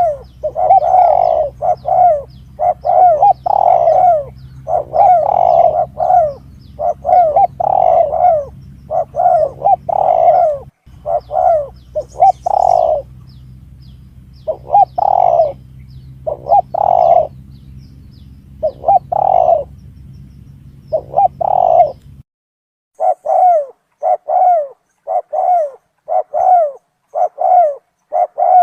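Spotted dove (tekukur) cooing over and over in rhythmic phrases, a recorded lure call for attracting doves. A low steady hum lies under the calls until it cuts off about 22 seconds in; after a short gap the cooing continues without it.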